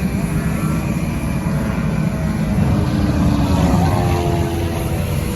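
Propeller airplane's engine running as it flies past over a steady low rumble, its drone falling in pitch about three to five seconds in as it goes by.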